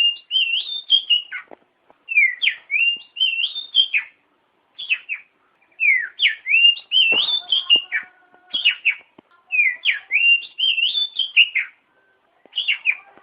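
Oriental magpie-robin (kacer) singing: phrases of clear whistled notes that swoop up and down in pitch, each phrase a second or two long with short pauses between.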